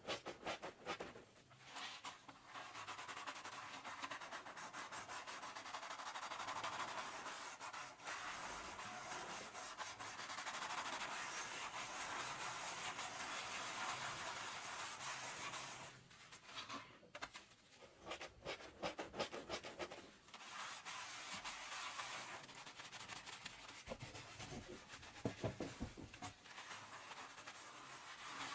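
A sponge scrubbing dishes at a kitchen sink. It gives a long stretch of continuous rubbing, then a few seconds of short separate strokes from about 16 s, then steady scrubbing again.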